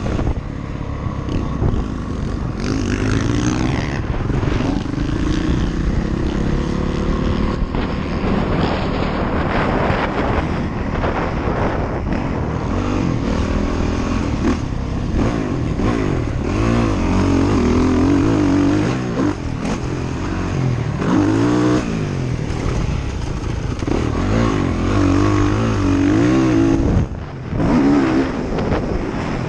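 Off-road vehicle engine revving up and down repeatedly during riding, with wind buffeting the microphone; the engine briefly drops off near the end.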